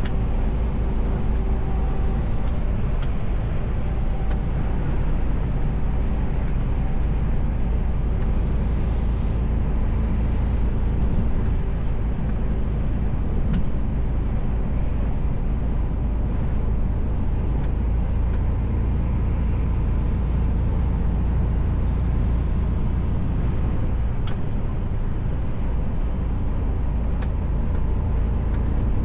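Mercedes-Benz Actros L truck driving, heard from inside the cab: a steady engine drone and road noise, with a brief hiss about ten seconds in.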